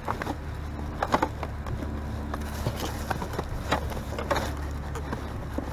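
Rummaging through discarded items in a trash pile: scattered light clicks, knocks and rustles of plastic cases and bags being handled, over a steady low outdoor rumble.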